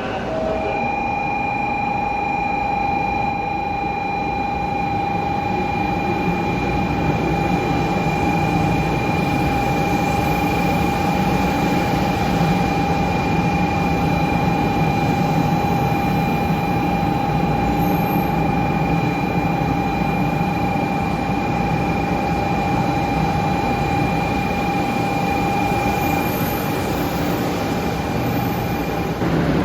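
Shinkansen train: a steady rumble with a constant high whine held at one pitch throughout, changing shortly before the end.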